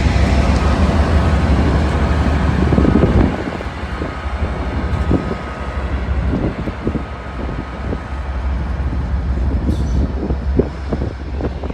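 A train passing close by, with a heavy rumble that falls off about three seconds in, then irregular knocks and clatter from the cars going past.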